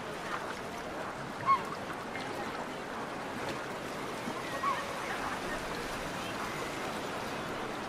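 Busy seaside ambience: a steady wash of distant indistinct voices and outdoor noise, with two short, louder high calls, one about a second and a half in and one a little past the middle.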